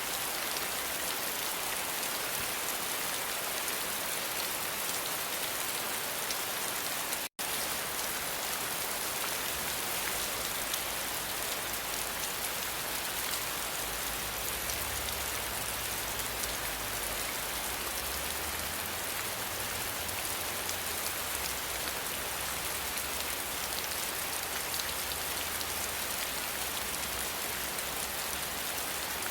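Steady rain hiss, cutting out for an instant about seven seconds in. A low rumble joins underneath from about ten seconds in.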